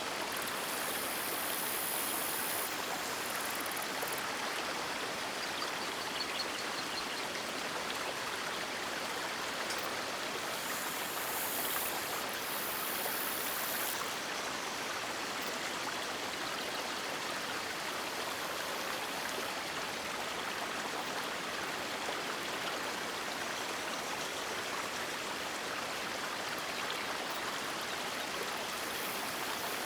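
River water rushing and splashing over rocks in an even, continuous wash.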